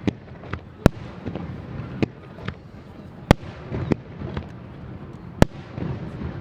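Aerial fireworks shells bursting overhead: a series of sharp bangs at irregular intervals, roughly one or two a second, a few much louder than the rest.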